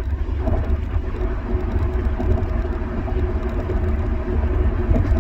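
Steady low rumble of a car cabin on the move: road and engine noise.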